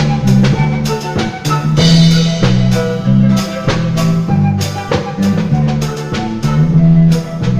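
Andean folk band playing an instrumental passage, with drums keeping a steady beat about twice a second over bass notes and plucked or melodic instrument lines.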